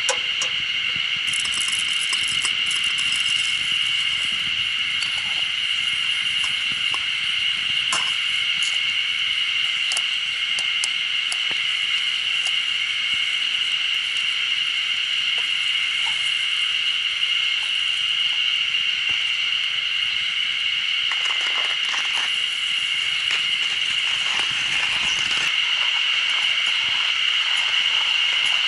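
Campfire crackling, with scattered sharp pops and a busier patch about three-quarters of the way through, over a steady high-pitched drone.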